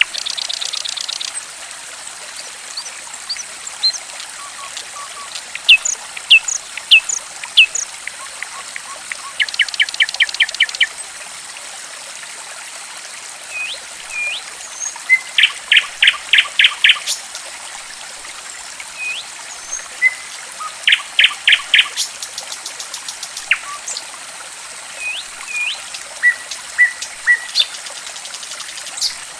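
Small songbirds calling over steadily trickling water: single sharp chirps, broken several times by a second-long run of quick repeated notes. This is a lure recording of the kind played to prompt a caged bird that has gone quiet to sing.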